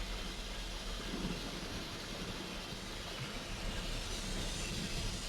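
Torrential rain on a car, a steady even hiss, with the low rumble of the car's engine and tyres beneath it.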